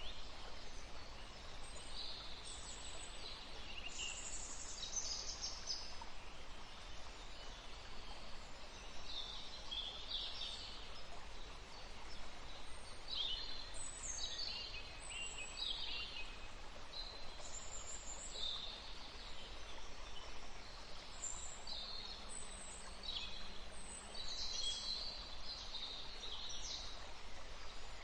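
Small songbirds chirping: many short, high notes that dip in pitch, coming in quick clusters over a steady background hiss.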